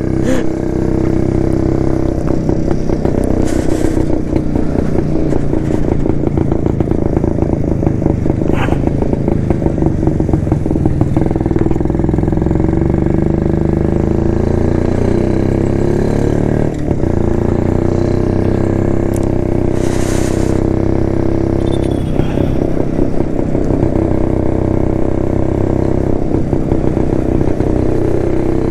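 1972 Jawa motorcycle's two-stroke engine running under way. Its pitch climbs between about eleven and sixteen seconds in, dips briefly around seventeen seconds, then runs on steadily.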